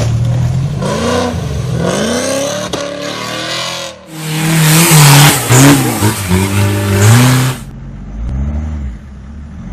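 Off-road competition vehicle's engine revving hard, its pitch rising and falling again and again. About four seconds in, a much louder stretch of full throttle with a harsh rushing noise begins; it cuts off abruptly after about three and a half seconds, and the revs carry on quieter.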